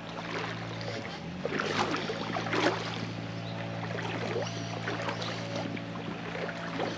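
Water splashing and sloshing in a shallow stream, in irregular splashes, over a steady low hum.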